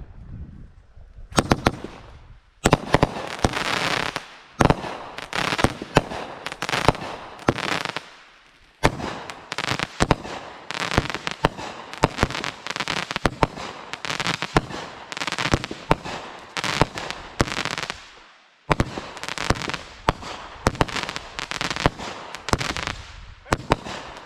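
Consumer fireworks going off in a rapid, irregular barrage of sharp bangs, each followed by a crackle. The barrage has three short lulls.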